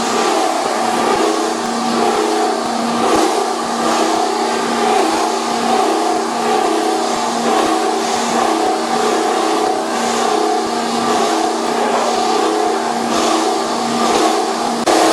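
Cable copper-wire recycling machine running: a steady motor hum with a held tone, overlaid by irregular louder noisy surges.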